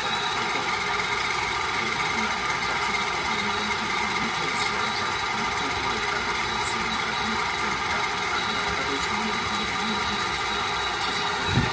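Radio-controlled model truck running: a steady mechanical hum with a whine.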